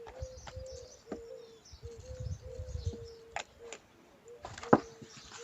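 A bird calling a steady series of short, low, hollow notes, about three a second. Light clicks and handling noise from seeds being added to a mixing bowl sit on top, with one sharp knock near the end.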